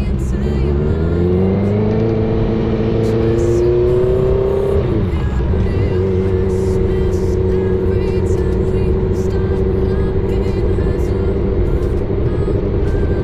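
Honda CBR650R inline-four running through an aftermarket full exhaust, accelerating with its pitch rising for about five seconds. The pitch then drops sharply and holds steady as the bike cruises.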